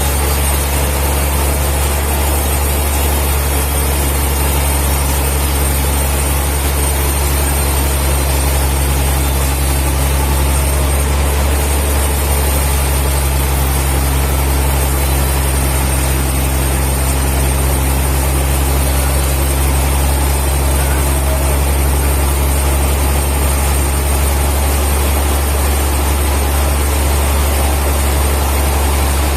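Sawmill machinery running with a steady, unchanging low engine-like drone and no cutting strokes heard.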